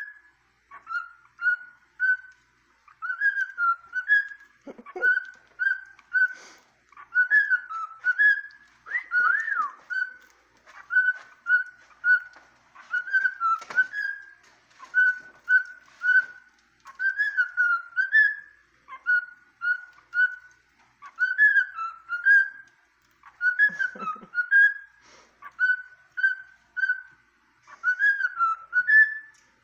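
Cockatiel whistling a tune in short, clear notes, the same little phrase repeated over and over without a break.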